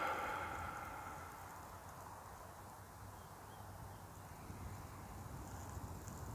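The tail of a long, audible exhaled sigh fading out in the first second. After it comes a faint, steady low rumble of outdoor background.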